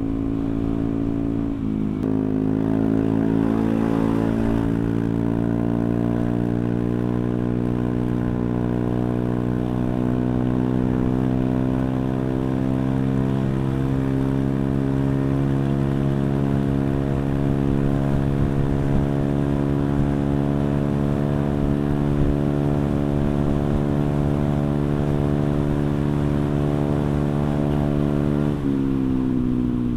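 Honda Vario 125 scooter's single-cylinder four-stroke engine running through a CLD C3 oval aftermarket racing exhaust with the dB killer (baffle) removed. The engine is held at raised revs, with a small step up in pitch at the start. The pitch then creeps slowly higher and drops suddenly near the end.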